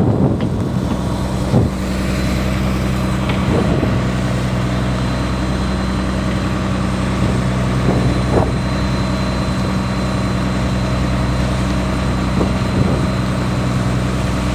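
An engine idling with a steady low hum that does not change in pitch.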